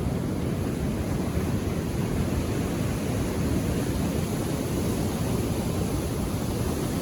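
Ocean surf: a steady, low rush of waves on the shore, with no single break standing out.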